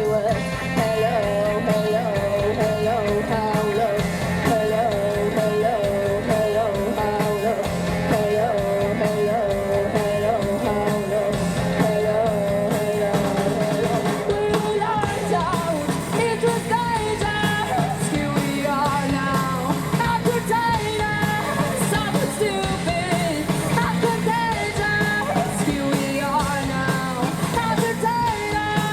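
Live rock band playing a song at full volume: drums, bass and electric guitars keeping a steady driving beat under a wavering melodic lead line.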